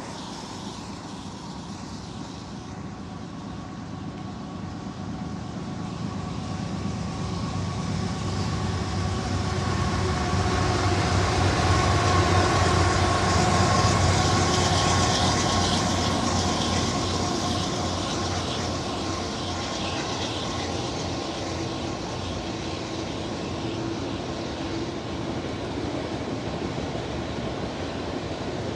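Freight train passing on the adjacent tracks: diesel locomotives running with a steady drone that grows louder until they are level, about halfway through, then eases as the freight cars roll by.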